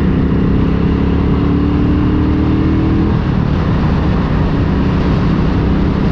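Motorcycle engine running at road speed under a steady rush of wind and road noise. Its note rises slowly as it accelerates, then drops away about three seconds in, as at a gear change.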